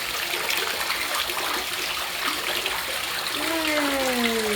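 Water pouring steadily down a basement wall into standing floodwater, a constant splashing rush. Near the end a person's voice gives one long falling sound.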